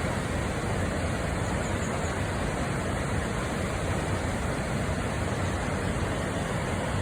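Steady rush of water from the Hōmei Shijūhachi-daki cascades on the upper Hirose River, an unbroken roar heaviest in the low end.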